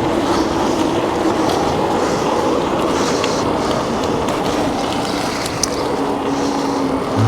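Steady rushing noise of a bike in motion: wind on the microphone and tyres on the path, with a faint steady hum underneath.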